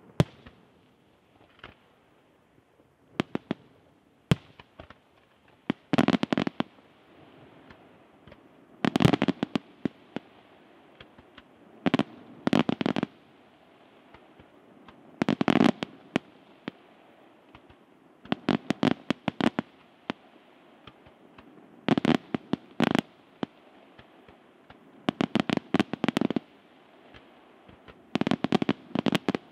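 Aerial fireworks shells bursting: rapid volleys of sharp bangs in a cluster about every three seconds, with scattered single reports between.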